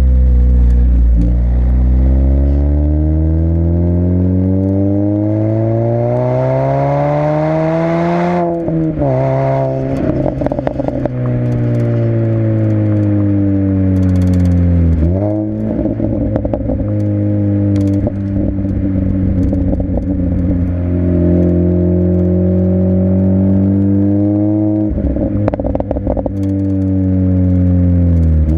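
Supercharged 1.6-litre four-cylinder of a 2006 Mini Cooper S (R53) running through an Alta aftermarket exhaust. The revs climb steadily for about eight seconds, then drop sharply with exhaust crackles and pops. They dip again about fifteen seconds in, then hold fairly steady with a few more pops near the end.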